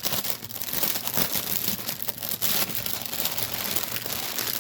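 Crinkling, rustling packaging of a stamped cross-stitch kit being handled and tugged loose, with many small crackles.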